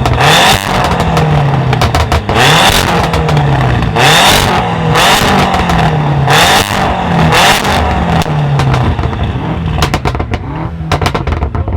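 Tuned car engine with an aftermarket exhaust being revved repeatedly while stationary, the pitch rising and falling about once every second or so, with sharp exhaust pops and bangs between revs. The revving eases near the end, leaving a scatter of pops.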